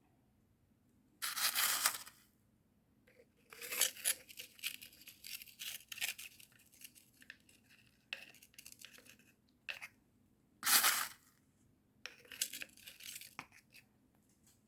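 Perlite granules poured into the gaps between orchid bark stones in a small plastic bottle, as a series of short, rushing, gritty pours.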